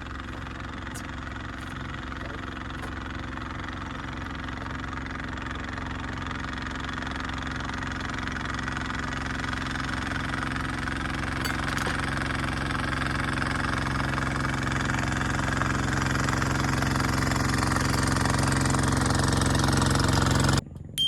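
A small engine running steadily, growing louder over about twenty seconds, then cutting off abruptly just before the end.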